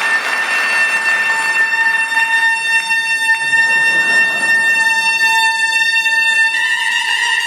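Soprano saxophone holding one long sustained note, which steps slightly higher in pitch about six and a half seconds in, with a noisy wash under it in the first couple of seconds.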